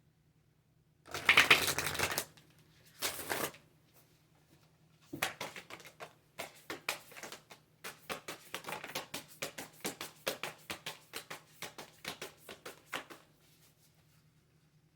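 Tarot cards being shuffled: two bursts of card rustle in the first few seconds, the first louder, then a long run of quick card clicks, several a second, that stops about two seconds before the end.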